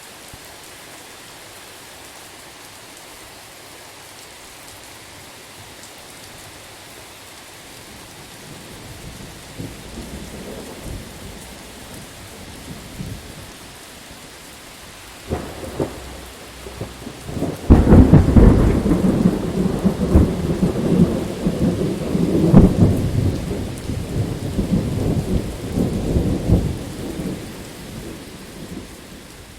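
Steady rain with a thunderstorm. A low rumble of thunder builds about a third of the way in, two sharp cracks come just past the middle, then a loud rolling peal of thunder that dies away near the end.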